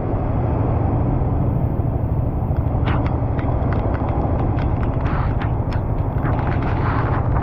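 Motorbike in a heavy downpour on a waterlogged road: a steady low rumble of wind and road noise, with scattered sharp ticks of raindrops hitting close by.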